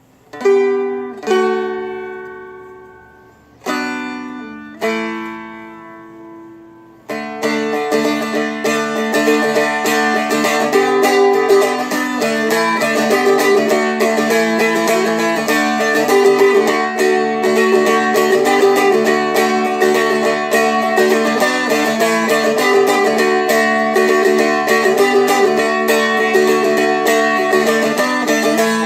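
Seagull Merlin M4 four-string dulcimer-style instrument: two strummed chords left to ring and fade, then two more, and from about seven seconds in a fast flatpicked melody over ringing drone strings.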